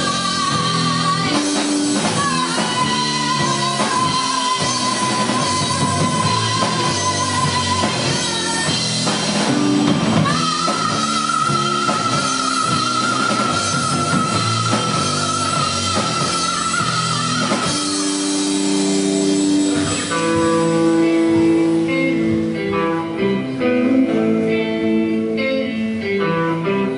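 Live rock band playing, with long held notes wavering in pitch over the full band. About two-thirds of the way through the full band drops away, leaving a picked guitar figure.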